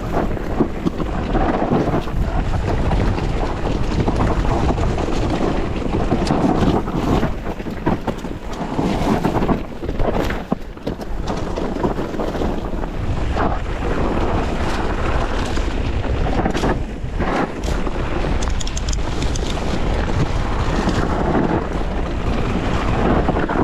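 Wind buffeting an action camera's microphone: a loud, gusting roar with heavy low rumble that rises and dips over the whole stretch.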